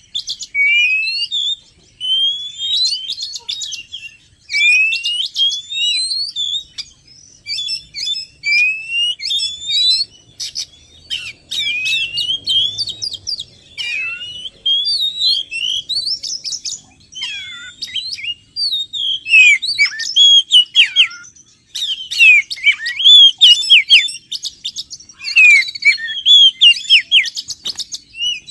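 Oriental magpie-robin (kacer) singing loud whistled phrases. Rising whistles repeat every second or so at first; from about halfway the song turns denser and more varied, with quick trills and falling notes.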